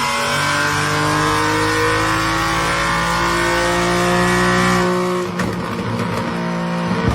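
A performance car's engine accelerating hard, its note rising steadily in pitch for about five seconds. About five seconds in, the engine sound changes abruptly to a steadier, different tone.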